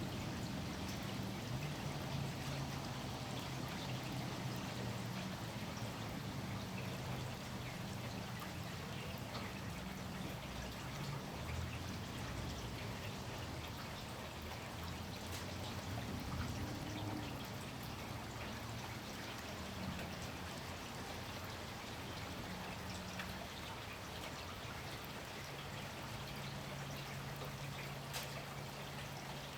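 Steady rain falling, with scattered drips and a low drone that comes and goes underneath.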